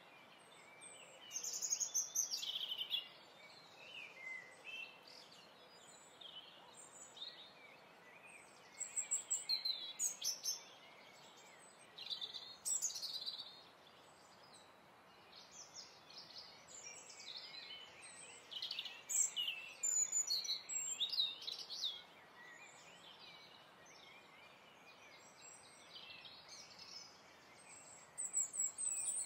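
Birdsong: birds chirping in runs of quick high notes, on and off, over a steady background hiss.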